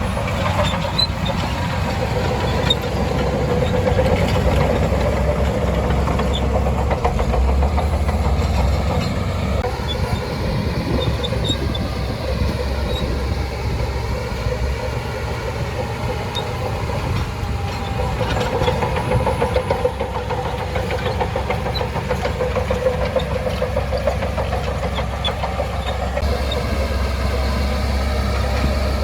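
Shantui DH17C2 bulldozer's diesel engine running steadily under load, a heavy low drone whose tone shifts as it works, with scattered faint clicks over it.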